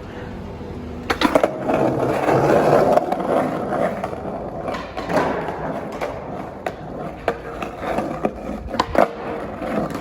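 Skateboard rolling on hard pavement, its wheels rumbling, with sharp clacks of the board striking the ground: first about a second in, then several more scattered through the second half.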